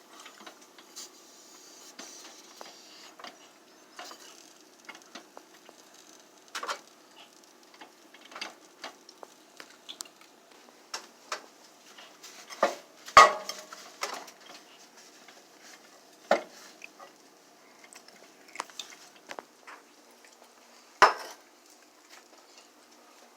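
Kitchen utensils and dishes clinking and knocking at irregular moments, with a few louder clacks about halfway through and again near the end.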